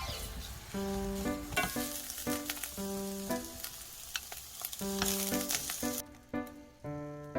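Food sizzling as it fries in a pan, with occasional stirring; the sizzle stops about six seconds in. Background music with piano-like notes plays throughout.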